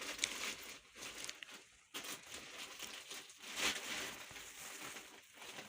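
Faint, irregular rustling and crinkling with a few small clicks.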